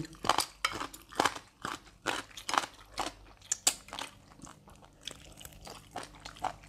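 Chewing and biting on barbecued chicken, close-miked mouth sounds: many short, irregular clicks and crunches.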